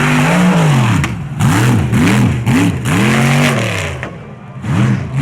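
Mega truck's engine revving hard in repeated rises and falls: a long rev, then several quick blips and another long rev, easing off about four seconds in before picking up again.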